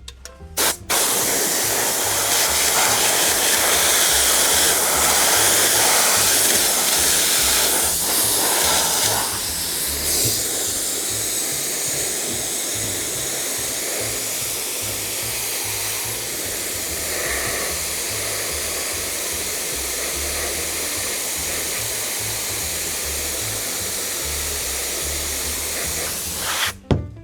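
Spray adhesive hissing steadily from a sprayer onto seat foam. It starts about a second in, is louder for the first several seconds, and cuts off suddenly near the end.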